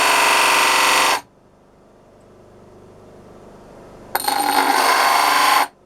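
A cut piece of metal box section held against a running disc sander, grinding loudly for about two seconds, then again for about a second and a half near the end. A faint motor hum carries on between the two passes.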